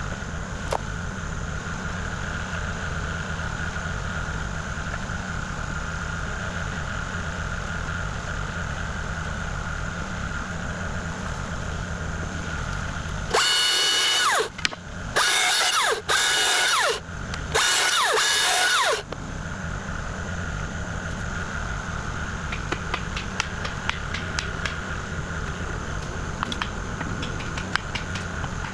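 Kubota KX040 mini excavator's diesel engine running steadily with a thin hydraulic whine. About halfway through, four louder bursts of high whining, each falling in pitch as it ends, as the hydraulics work under load; scattered sharp clicks and clanks follow near the end.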